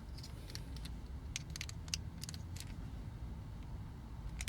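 A flathead screwdriver working at small plastic toy parts while prying out a pin, heard as clusters of short, light clicks and taps in the first half and again near the end, over a low steady hum.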